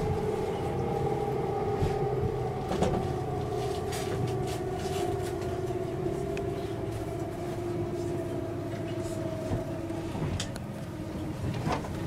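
Running noise inside a JNR 189 series electric train's motor car: a low rumble with a motor whine that slowly falls in pitch, and a few short clacks.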